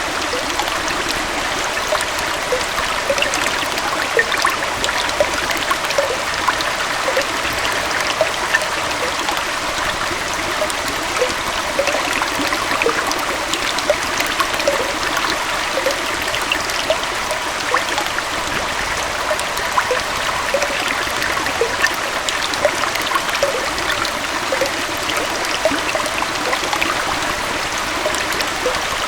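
Small waterfall and forest stream flowing steadily: a constant rush of water with many small gurgles and splashes.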